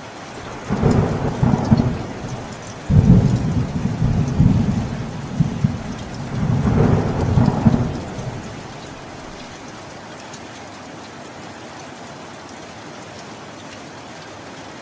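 Steady rain with a long rolling rumble of thunder that starts about a second in, swells in several surges and dies away after about eight seconds, leaving the rain alone.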